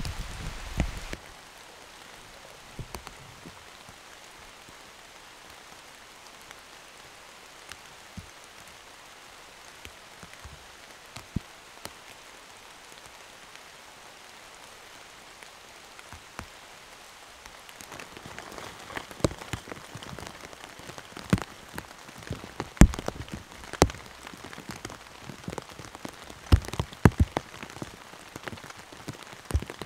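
Heavy rain. For about the first second it is a louder rush with a low rumble, then a steady, softer hiss of rain with single large drops landing close by. The drops come thicker and louder in the second half.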